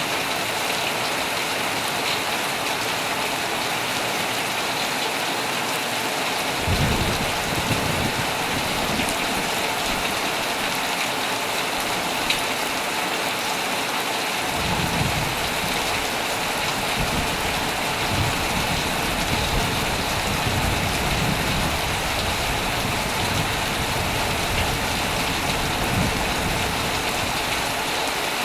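Heavy rain falling steadily on a tent. Thunder rumbles low, briefly about a quarter of the way in, then longer and rolling from about halfway through.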